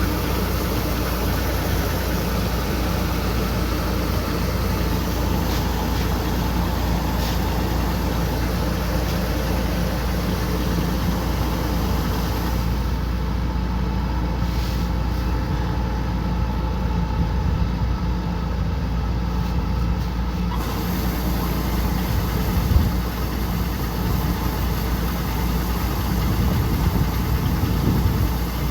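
Combine harvester's diesel engine running steadily, with a single short knock about three-quarters of the way through.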